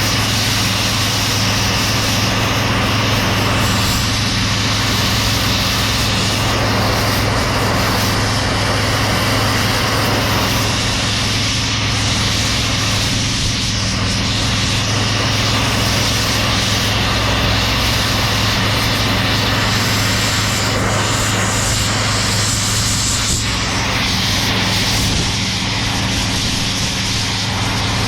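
Machinery running steadily: a low engine-like hum with a constant hiss over it.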